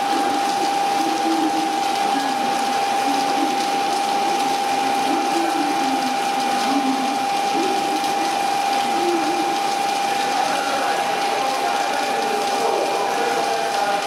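Steady rain falling, with a continuous high-pitched tone holding one pitch through it.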